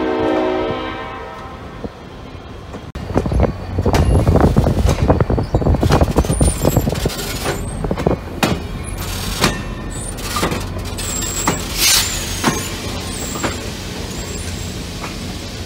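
Diesel locomotive horn sounding and ending about a second in. Then the locomotive rumbles close past on street track, followed by passenger cars rolling by with regular clicks of wheels over rail joints and a few brief high wheel squeals.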